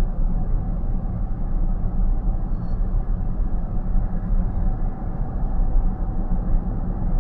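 Steady low rumble of road and tyre noise inside a car's cabin at highway speed, with a faint steady hum above it.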